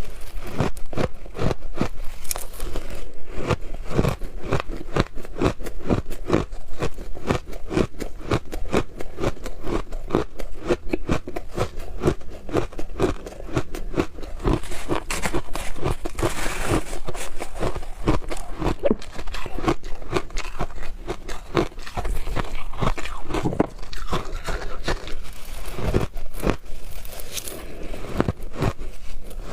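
Close-miked biting and chewing of frozen shaved ice: a dense, continuous run of crisp crunches, several a second.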